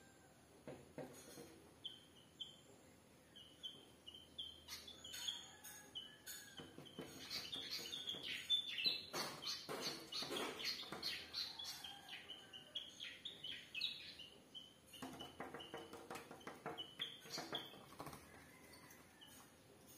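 Small birds giving short, repeated chirps, while a bird flutters against the window glass, making runs of quick taps and wing flutters, loudest about halfway through and again a little later.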